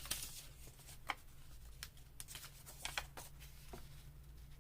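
Paper being handled on a work table: faint, scattered rustles and light ticks, about half a dozen over a few seconds.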